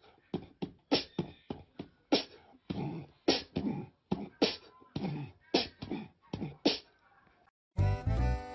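A person beatboxing: rhythmic mouth percussion with a strong beat about once a second and lighter hits between. It stops near the end, and upbeat music starts.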